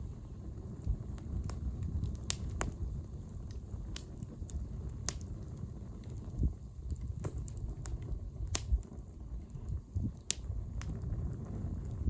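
Wood bonfire crackling, with sharp pops at irregular intervals over a low steady rumble.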